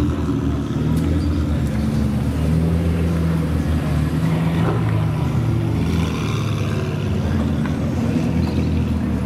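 Car engine running steadily at low revs, a low exhaust rumble with no revving.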